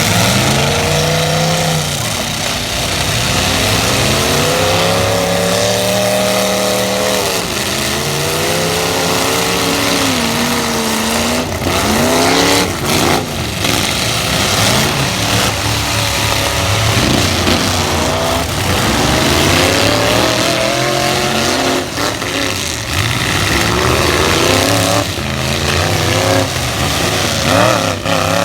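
Engines of several light trucks in a demolition derby revving hard, their pitches climbing and dropping again and again over one another, with a few sharp knocks around the middle.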